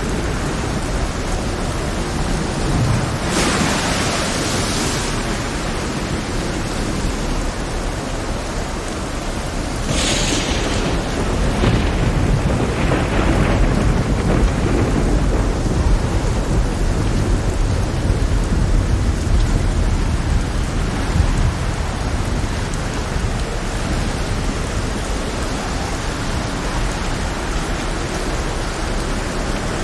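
Heavy rainstorm with thunder: steady dense rain over a low rumble, with a sharp crack about three seconds in and another about ten seconds in. The second is followed by about ten seconds of louder rolling rumble.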